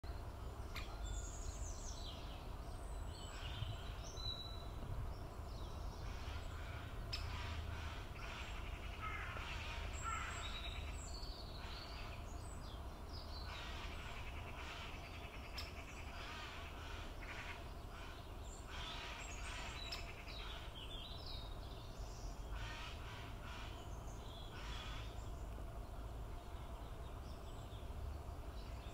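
Birds calling on and off, short calls and quick runs of rapid notes, over a steady low rumble.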